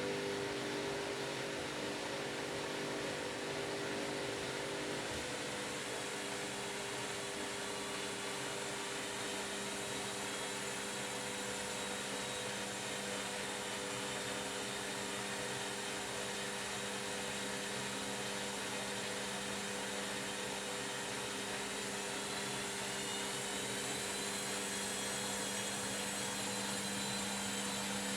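Washing machine running with a steady motor hum and whine over a constant hiss; one of the hum tones fades out about five seconds in, and faint high tones bend up and down near the end.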